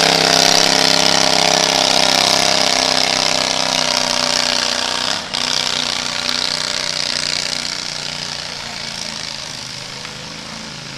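A small engine running steadily with a rough, even beat, growing gradually fainter through the second half.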